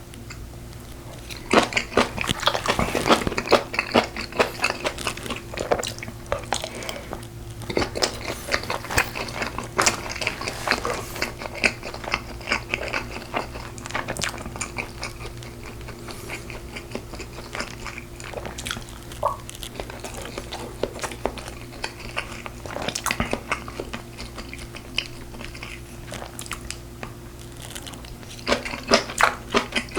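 Close-miked chewing and biting while eating braised pork ribs, irregular wet mouth sounds with some crunchy bites, in bouts that come and go. A steady low hum lies underneath.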